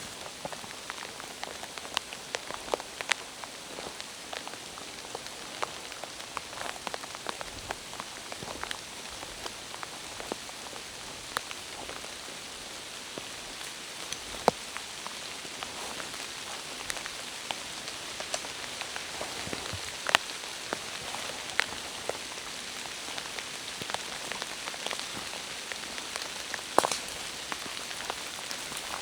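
Steady rain falling, an even hiss with many single drops striking close by as sharp ticks, a few of them louder.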